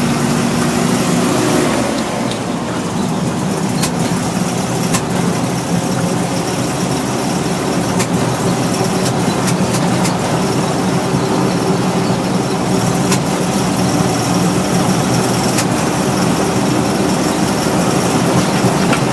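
Jeep CJ7 engine running while driving, a steady hum broken by a scatter of brief sharp clicks. The engine 'sneezes', which the owner takes for it not getting enough fuel or the right amount; a shop suggested water in the fuel tank.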